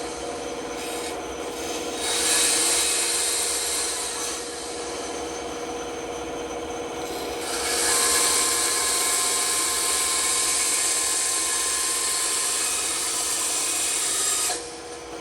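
A running woodworking power tool hums steadily while a piece of wood is worked against it, in two stretches of rasping, about two seconds long and then about six and a half seconds long. The rasping stops abruptly near the end.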